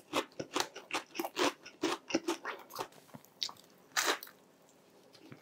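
Close-up crunchy chewing of crispy fried food, with short crackles about three a second, then a crisp bite into a fried corn-cheese twisted doughnut (kkwabaegi) about four seconds in.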